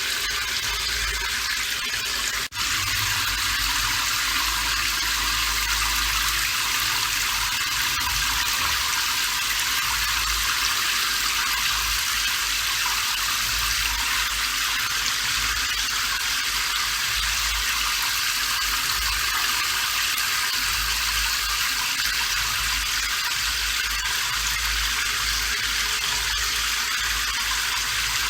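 Steady rain, a dense, even hiss with a low rumble underneath, dropping out for an instant about two and a half seconds in.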